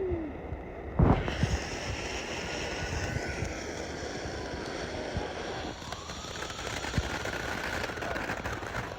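A single thump about a second in, then a distant siren, faint over steady outdoor background noise, wailing slowly down and back up.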